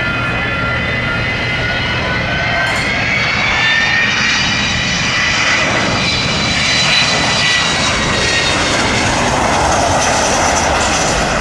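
Jet aircraft flying past: a whine of several tones sliding slowly in pitch over engine rumble, with the rush of jet noise swelling in the last few seconds.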